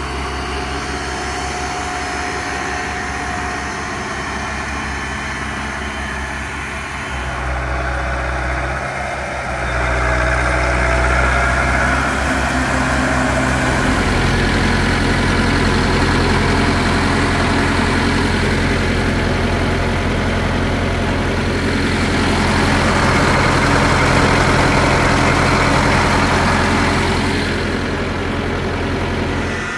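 Zetor tractor's diesel engine running steadily while pulling a maize planter. Its sound gets louder about seven seconds in and again around fourteen seconds.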